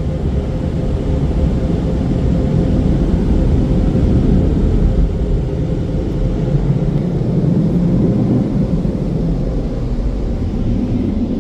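Car-wash air dryers (Premier blowers) running at full power: a loud, even rush of air with a steady hum underneath.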